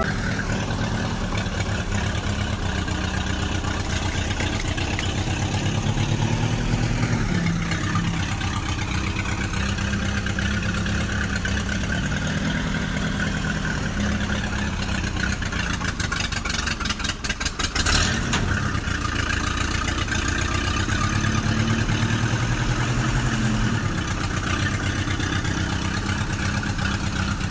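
Mini tractor's engine running steadily. Its pitch dips and comes back up about seven seconds in. About seventeen seconds in it briefly falters and there is a sharp click.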